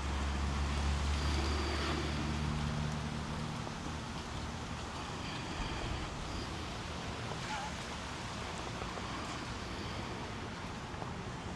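Outdoor ambience: a steady wind-like hiss, with a low droning engine-like hum for the first three seconds or so that then fades out.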